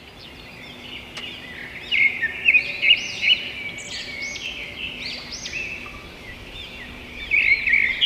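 A chorus of small songbirds chirping and twittering, many short overlapping chirps, with louder bursts about two seconds in and again near the end.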